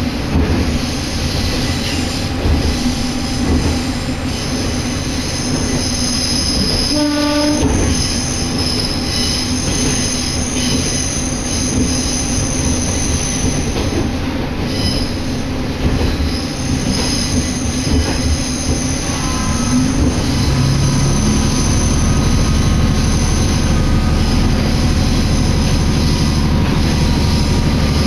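Isumi Railway diesel railcar running, heard from inside the car: steady wheel and rail noise with a high squeal of the wheels on and off in the first half, and a short horn blast about seven seconds in. From about twenty seconds a low engine drone sets in and holds.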